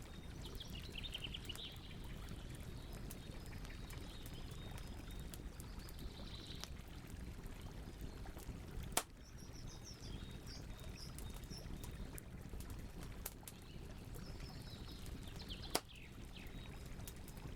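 Campfire burning with a steady low rumble and many small crackles, with two sharp, loud pops, one about halfway through and one near the end. Birds chirp in short phrases several times over the fire.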